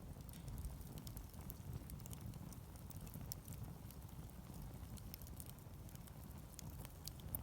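Wood fire crackling, with scattered small sharp pops over a low steady rumble.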